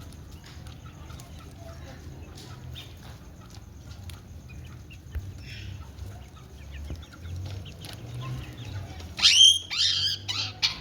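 Indian ringneck parakeet giving a short run of loud, shrill calls that sweep down in pitch, about nine seconds in, after a quiet stretch with a faint low hum.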